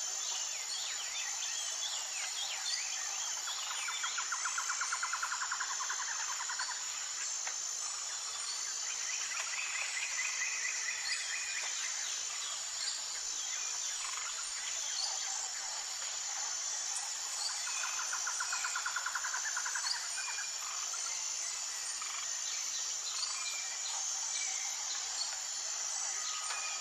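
A steady high insect chorus with an even, pulsing rhythm, with several birds chirping over it. A bird gives a rapid trill about four seconds in, a higher one around ten seconds, and another low rapid trill around eighteen seconds.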